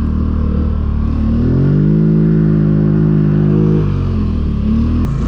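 Four-wheeler (ATV) engine running at low revs, revving up about a second and a half in, holding the higher revs for a couple of seconds, then dropping back. A short sharp click comes near the end.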